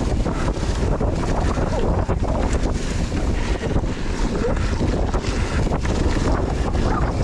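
Wind rushing over the camera microphone during a fast mountain-bike descent on a muddy trail, with steady rattles and knocks from the bike over rough ground.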